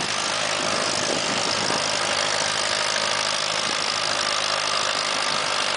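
1953 Allis-Chalmers WD tractor's four-cylinder engine running steadily under load while pulling a weight-transfer sled.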